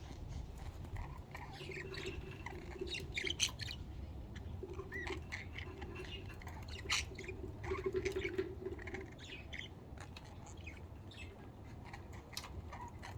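Budgerigars chirping and chattering in a quick, irregular run of short, high chirps and squawks.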